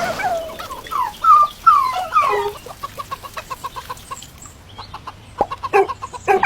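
Poultry calling: several falling squawks, then a quick run of short clucks, with a few sharp clicks near the end.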